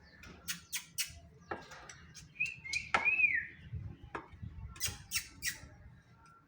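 Pet parrot giving a short whistled call that rises and falls, about halfway through. Scattered sharp clicks come in two groups of three, one near the start and one near the end.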